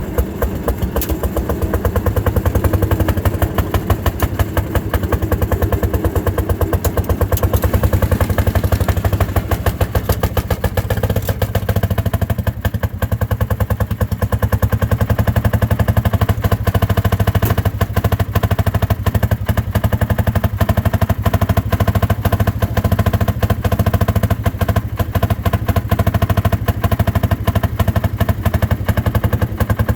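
Fairmont M-19 motor car's single-cylinder two-stroke engine running steadily under load, a rapid even train of exhaust beats while it pulls the car up a grade.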